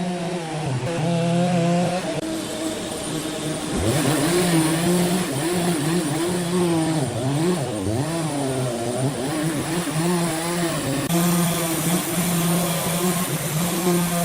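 An engine running, its pitch rising and falling again and again as it is revved or loaded, with a quick climb back up about four seconds in.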